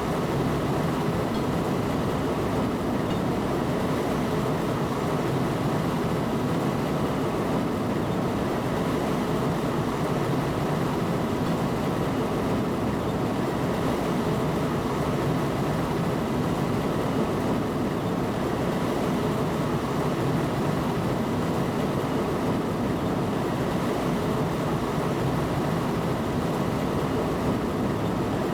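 A train running steadily, heard from inside the train: an even rumble and rush of noise with faint steady whining tones, unchanging throughout.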